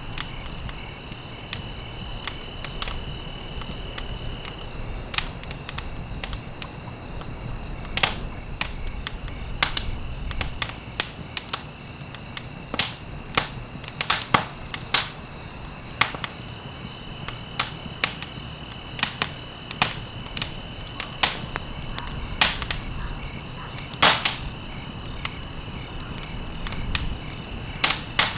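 Wood fire crackling and popping with irregular sharp snaps over a soft steady hiss, the loudest pop about 24 seconds in. A steady high-pitched trill runs underneath, dropping out for a while after about five seconds and returning later.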